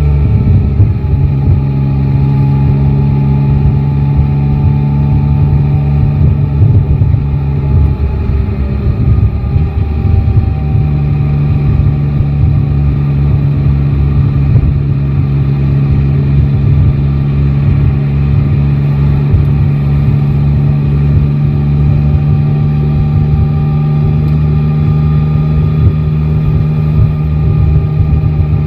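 Yamaha Tracer 9 GT's three-cylinder engine running under way, its note wavering through the first ten seconds or so and then holding a steady pitch at a constant cruise.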